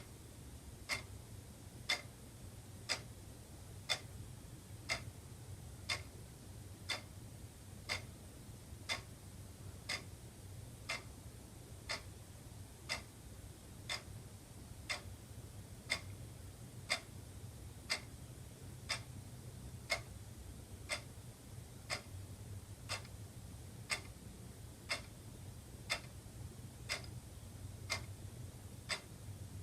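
Wall clock ticking steadily, one tick a second, over a faint low hum.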